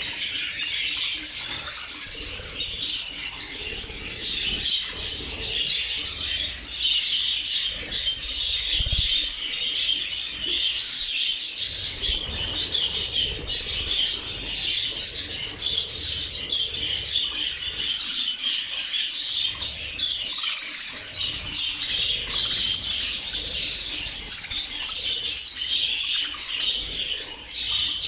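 A large flock of budgerigars chattering and chirping together in a dense, continuous warble, with bursts of wing flapping.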